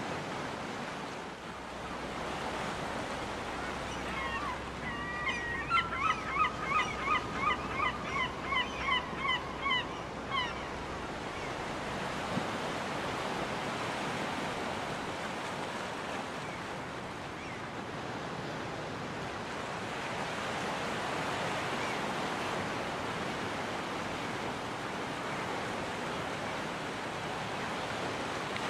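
Surf washing steadily onto a beach. About four seconds in, a gull gives a series of about a dozen loud, evenly spaced calls, roughly two a second, that stop after some six seconds.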